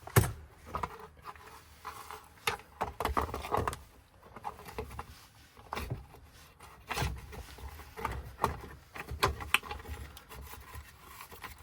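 Hand tools prying and scraping at a Ford ignition lock: irregular metallic clicks, taps and short scrapes, with the loudest click right at the start.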